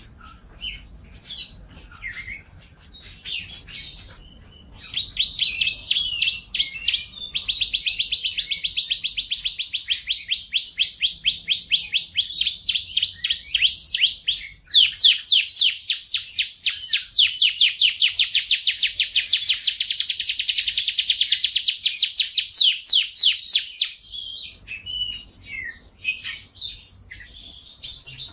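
Domestic canary singing: short chirps and varied phrases, then two long rapid trills of evenly repeated notes, one from about seven seconds in and a second from about fifteen seconds in that lasts until about twenty-four seconds, followed by more short chirps.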